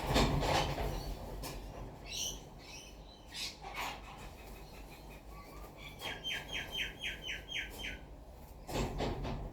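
Wild birds calling: a few short warbling and falling calls, then a quick run of about eight falling notes, roughly four a second. A loud rush of noise comes at the start and again near the end.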